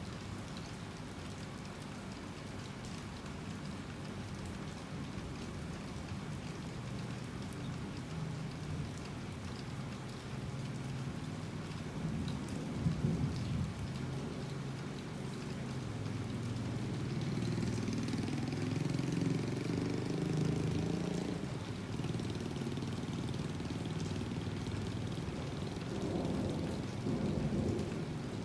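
Heavy rain falling steadily, with low thunder rumbles swelling up and fading a few times.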